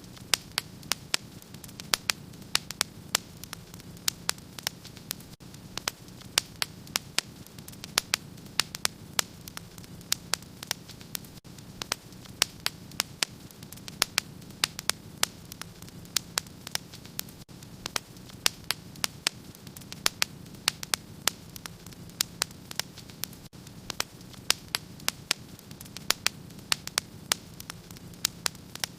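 Wood fire in a fireplace crackling, with frequent sharp irregular pops over a steady low hiss of the flames.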